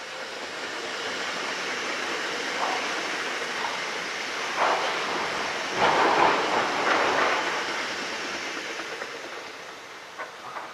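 Red regional electric multiple-unit passenger train passing by on the track. The steady rush of its wheels on the rails builds, peaks with a few louder clatters about halfway through as the cars go past, then fades away.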